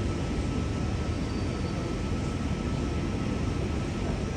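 Steady low rumbling drone with a faint constant high whine, as of an electric train standing at the platform with its equipment running.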